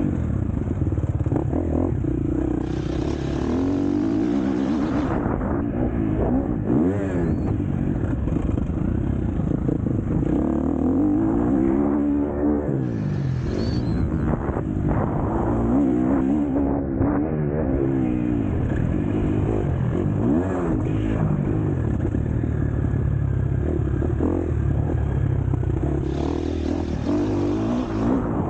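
KTM 250 SX-F four-stroke single-cylinder motocross engine under hard racing load, its pitch rising and falling again and again as the throttle is opened and shut through corners and jumps, with clattering from the bike.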